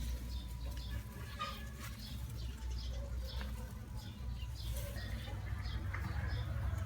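Small birds chirping in short, high calls, several a second, over a steady low rumble.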